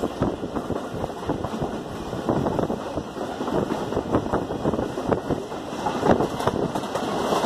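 Passenger train coach running at speed, heard from an open window: wind rushing over the microphone over a dense, irregular clatter of wheels and carriage.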